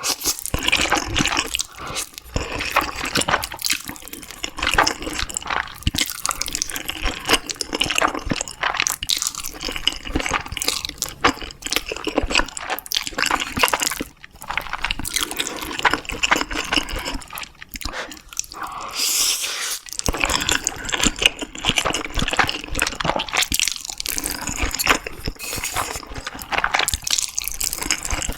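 Close-miked eating sounds: wet chewing, smacking and slurping, with a dense stream of small irregular clicks.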